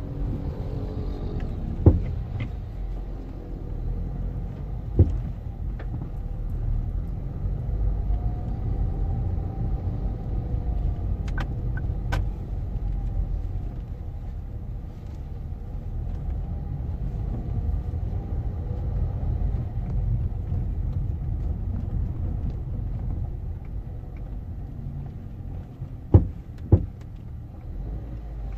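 2009 Ford Focus Mk2.5 moving with a steady low rumble. Sharp knocks come from the front suspension: one about two seconds in, others a little later, and two close together near the end. This is the noise the car makes when the body twists, which the owner traced to a worn driver-side upper subframe bushing.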